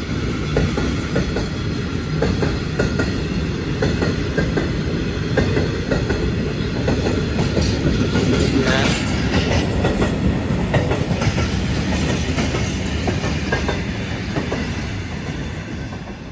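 Wheels of a long freight train's hooded steel wagons rolling past over the track, a steady clickety-clack of wheel sets over rail joints, dying away near the end as the last wagon passes.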